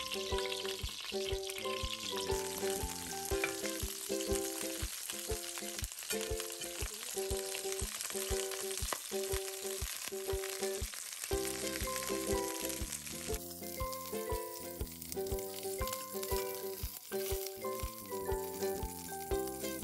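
Cauliflower florets sizzling as they fry in a pan, under background music: a simple melody of short notes over a steady beat.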